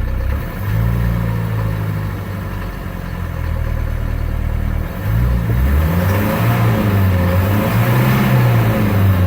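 1977 Mercedes-Benz 240D four-cylinder diesel engine running just after a cold start. It runs steadily at first, then from about five seconds in its speed rises and falls several times.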